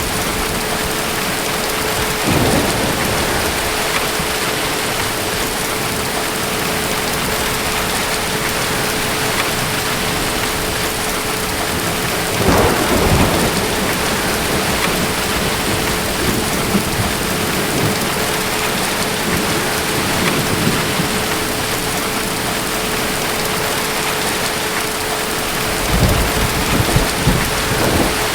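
Steady heavy rain with rolls of thunder: a short rumble about two seconds in, a louder one around the middle, and another building near the end. A faint steady hum sits under the rain.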